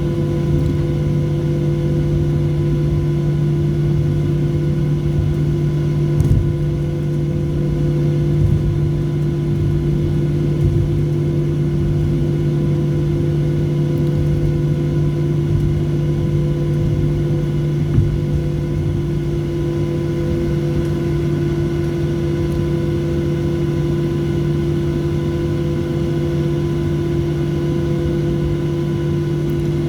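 Cabin noise inside a Boeing 737-700 taxiing after landing: a steady drone of the engines and air system with several constant hum tones over a low rumble, and a few light knocks about 6, 8 and 18 seconds in.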